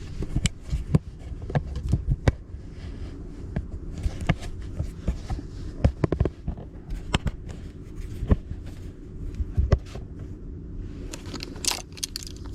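Handling paper index cards and pens at close range: scattered irregular taps, clicks and light rustles, over a low steady hum.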